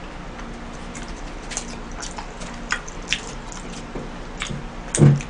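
Close-miked chewing of a mouthful of spaghetti: wet smacking clicks at irregular intervals, with a louder brief sound near the end.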